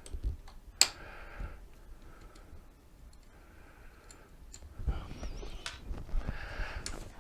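Clicks and knocks of hand tools and metal parts being handled during a repair, with one sharp click about a second in and a busier run of knocking and rattling in the second half.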